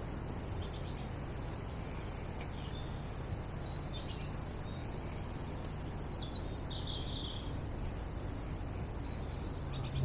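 Small wild birds chirping a few short high calls, spaced several seconds apart, over a steady outdoor rushing background.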